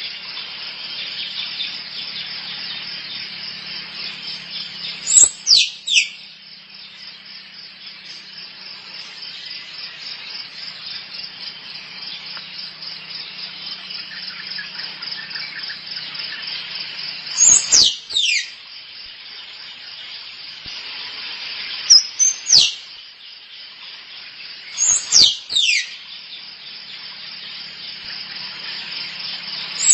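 Squirrel calling: clusters of two or three short, high chirps that fall sharply in pitch, coming four times plus once more at the very end, over a steady buzzing insect chorus.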